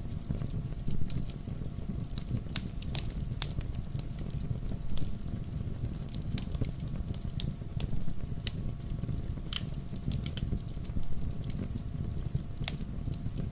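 Wood bonfire burning: irregular sharp crackles and pops over a steady low rumble.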